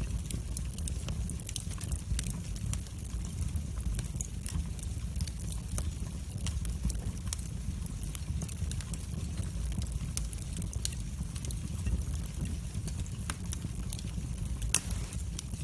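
Wood fire burning in a fireplace: a steady low rumble of the flames with many small, irregular crackles and snaps, and one sharper pop near the end.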